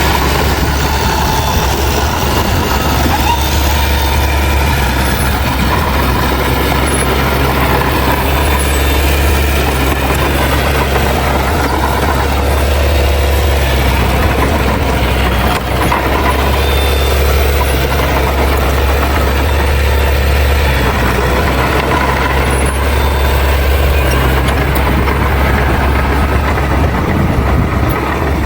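Heavy diesel engine of earthmoving machinery running steadily at a constant, loud level with a deep low hum, with one brief dip about halfway through.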